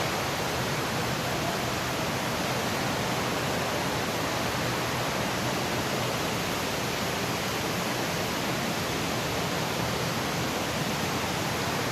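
Underground waterfall gushing: a steady, even rush of falling water.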